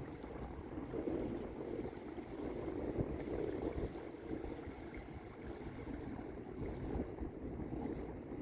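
Small lake waves lapping and washing onto the beach, swelling and easing in gentle surges.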